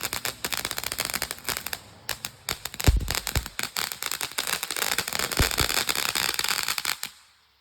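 A lit firework crackling rapidly and densely, with a couple of louder pops about three and five and a half seconds in, then stopping abruptly as it burns out about seven seconds in.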